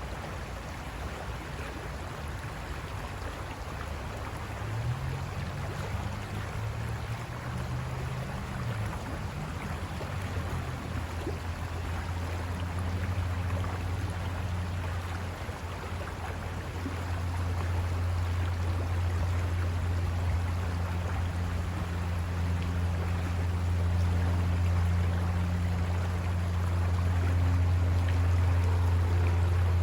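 River water rushing over rocks, with a low engine hum that wavers in pitch, then settles and grows steadily louder over the second half.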